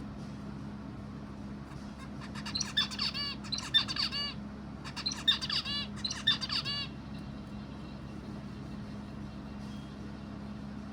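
A bird calling in two runs of rapid, repeated chirping notes, each lasting about two seconds with a short gap between, over a steady low hum.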